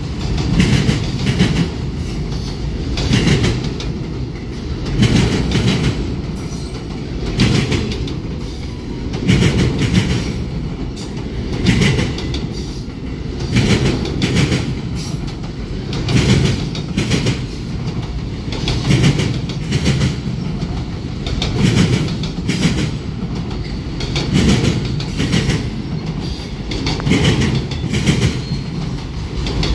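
Freight train cars rolling past, their wheels clattering in a steady rhythm that comes round about every two seconds, car after car, over a constant rumble.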